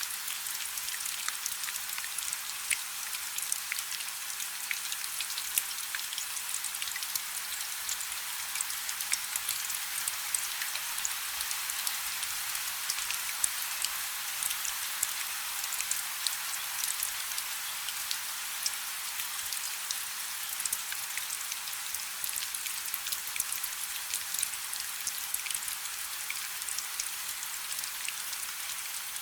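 Light rain falling steadily, a fine even hiss of many small drop ticks, with no low rumble.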